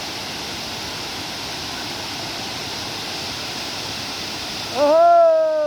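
Steady rush of falling water from a waterfall. Near the end the water sound drops away and a person's voice holds one long, loud vowel.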